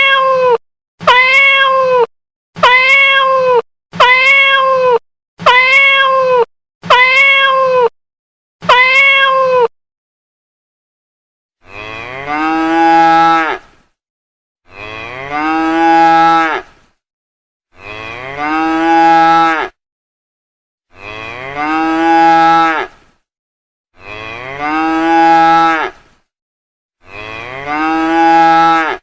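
A domestic cat meowing, the same short meow repeated seven times in about nine seconds. After a short gap, a cow mooing: the same drawn-out moo repeated six times, about three seconds apart.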